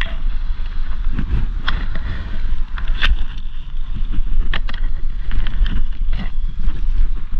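Wind buffeting the microphone as a heavy, steady rumble, with irregular sharp knocks and scrapes scattered through it.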